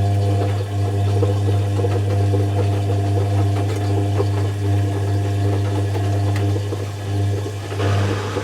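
Zanussi FC1000 compact washing machine running with a steady low hum, joined near the end by a rise in higher-pitched noise.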